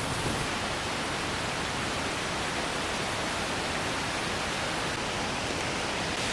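Steady rushing of falling and running water from a stream with small waterfalls, an even hiss with no breaks.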